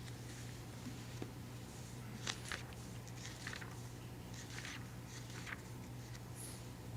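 Quiet room tone in a large room: a steady low hum with a few soft, brief rustles scattered through it.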